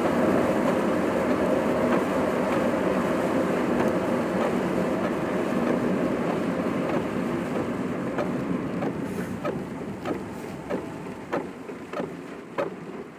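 Car interior driving noise, road and wind noise, easing off as the car slows, with regular short clicks about one and a half times a second in the second half.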